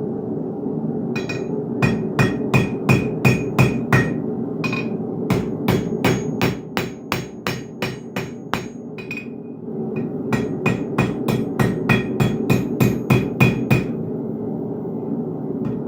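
Blacksmith's hammer striking steel on an anvil, in three runs of quick blows about three to four a second, each with a short ring. A steady hum runs underneath.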